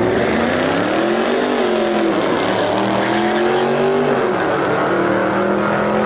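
Race car engine at full throttle, its pitch climbing, dropping at a gear change about a second and a half in, climbing again, and falling sharply about four seconds in before holding steady.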